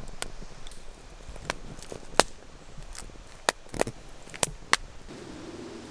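Dry wood giving sharp, irregular snaps and cracks, about eight in a few seconds, while a campfire is being got going.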